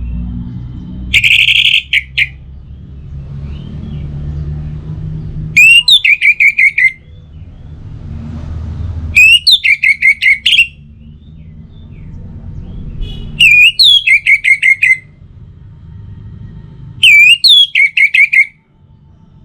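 Orange-headed thrush singing: loud, repeated song phrases about every four seconds, each a clear rising whistle that breaks into a quick run of short repeated notes. A low background rumble fills the gaps between phrases.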